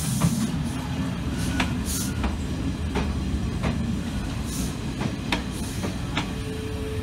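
Renfe electric commuter train rolling past close by: a steady low rumble with the wheels clacking over rail joints about once a second, and a brief steady squeal near the end.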